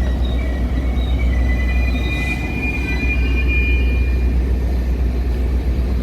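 Metra commuter train running, a steady heavy low rumble with thin high wheel squeals that fade out about four seconds in.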